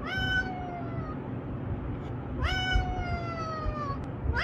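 A cat meowing: two long meows, each rising quickly and then sliding slowly down in pitch over about a second, with a third meow starting at the very end.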